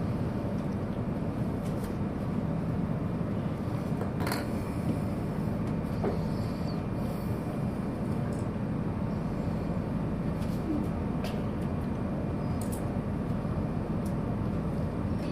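Steady low rumble inside a TGV Duplex high-speed train's passenger car, with a few faint clicks and knocks over it.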